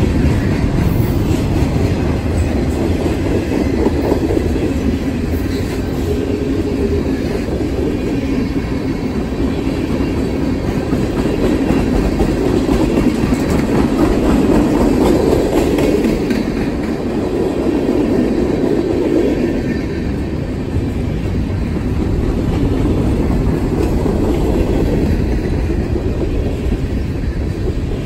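Freight train of tank cars, covered hoppers and boxcars rolling past close by: a steady rumble of steel wheels on the rails with light clicking over the rail joints, easing a little about two-thirds of the way through.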